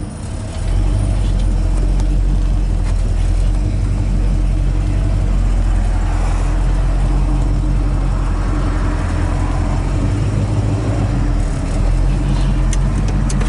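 Big-block 396 V8 of a 1966 Chevelle SS running steadily at low speed, heard from the driver's seat as the car backs up in reverse, a continuous low rumble. A few light clicks come near the end.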